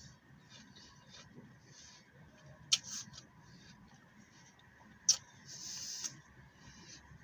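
Two crisp bites into a raw green apple, about two and a half seconds apart, each a sharp crack followed by crunching, with soft chewing between.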